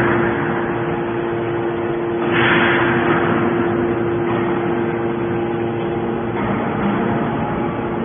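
Hydraulic scrap metal baler press running, its pump giving a steady hum, with a rushing burst of noise about two seconds in that dies away over a second or so.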